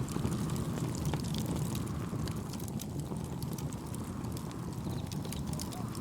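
Wood fire crackling, with many small sharp pops at irregular moments over a low steady rumble.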